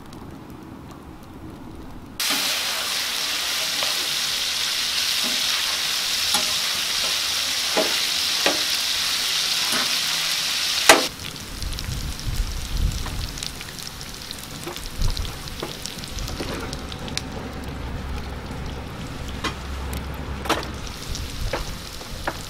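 Fish and chicken pieces frying in hot oil on a large tawa. A loud, steady sizzle starts about two seconds in and cuts off sharply near eleven seconds, giving way to a quieter sizzle broken by scattered clicks of a metal spatula.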